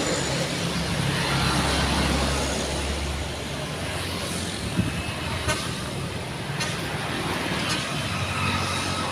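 Truck engines running with road noise, the low rumble heavier for the first three seconds, and a few short horn toots.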